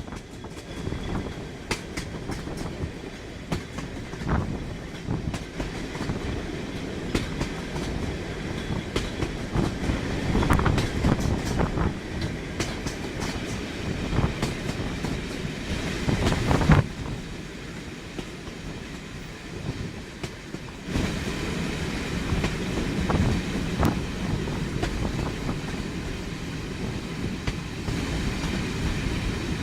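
A train running along the track, its wheels clicking irregularly over the rail joints over a steady rumble. A sharp, loud knock comes about 17 seconds in, and the running gets louder again a few seconds later.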